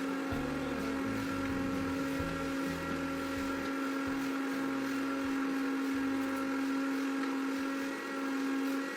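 An electric motor running with a steady, even hum.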